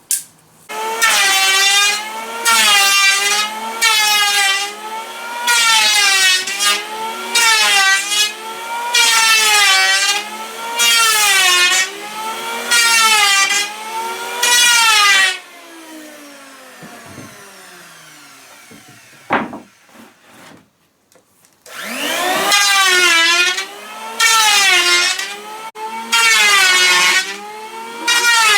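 An electric power tool cutting wood in repeated passes, its motor pitch dipping under load with each stroke. About halfway through it is switched off and winds down. Near the two-thirds mark it starts up again and resumes cutting.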